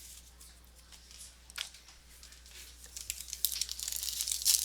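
Crinkling of a trading card pack wrapper being handled, with one sharp click about a second and a half in. The crackle grows denser in the last second or so as the wrapper is torn open.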